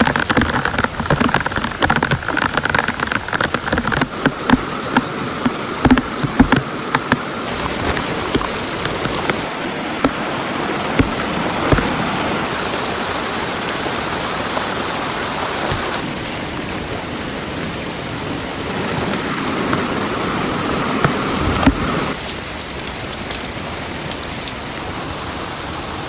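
Heavy rain, with close drops hitting a surface as many sharp clicks over a dense hiss. The mix of rain changes abruptly several times.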